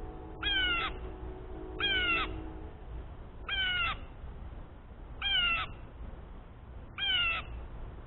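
Blue jay giving its harsh 'jay' call five times, evenly spaced about every second and a half, each call short and raspy.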